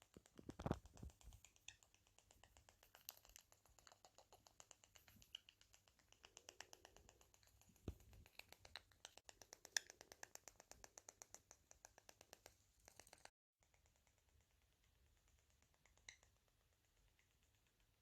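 Small parrot making rapid, even clicking sounds, several clicks a second, with a few louder taps: its courtship display, made while hormonal. The clicking stops abruptly about 13 seconds in.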